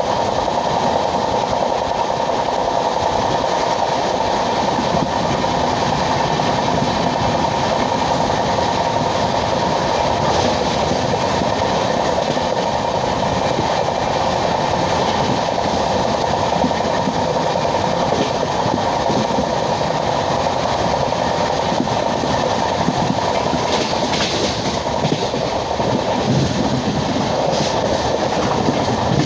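LHB passenger coach of an Indian Railways express running at speed: a steady rumble of wheels on the rails.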